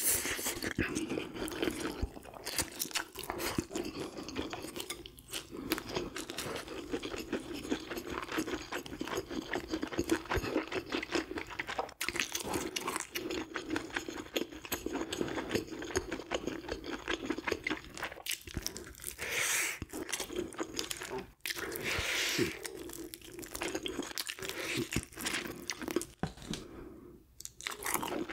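Close-miked chewing and crunching of grilled fish, with crisp skin and small bones crackling between the teeth and wet mouth sounds.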